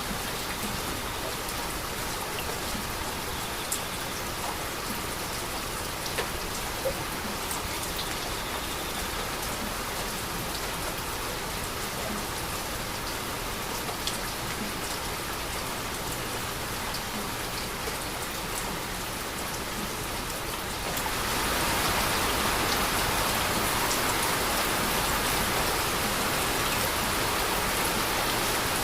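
Steady heavy rainfall with scattered drop taps, growing louder about three-quarters of the way through.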